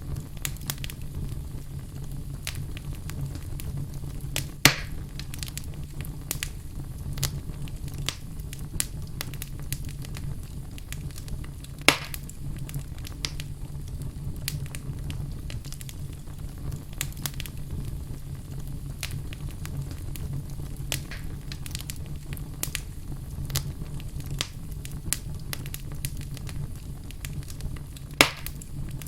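Wood fire burning in a fireplace, crackling steadily with many small ticks over a low rumble, and three louder sharp pops at about 5, 12 and 28 seconds in.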